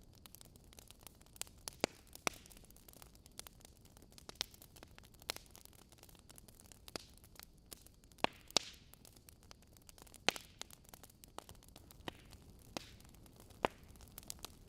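Wood logs burning in a fireplace, crackling with irregular sharp pops and snaps over a faint steady hiss, a few louder pops near the middle and near the end.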